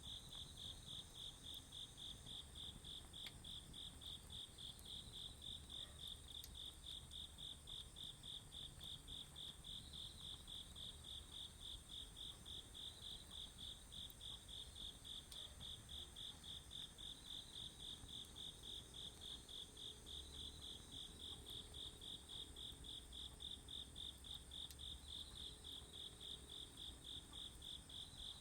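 Autumn crickets chirping in an even, steady rhythm, a few chirps a second, over a continuous high-pitched trill from other insects.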